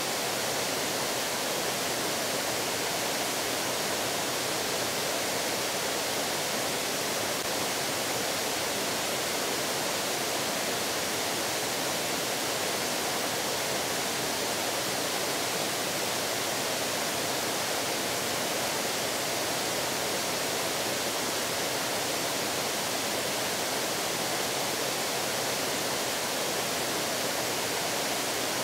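Steady rushing of fast-flowing stream water, an even noise that never changes.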